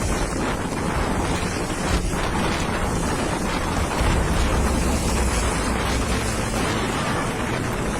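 Strong wind buffeting the microphone: a steady rushing noise with heavy low rumbling gusts, strongest about halfway through.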